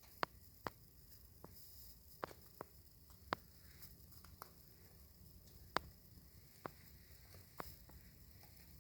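About ten faint, sharp clicks or taps at uneven intervals over a quiet, steady hum and hiss.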